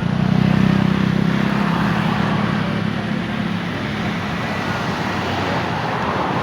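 A passing vehicle's engine drone over a steady noise wash, loudest early and slowly fading.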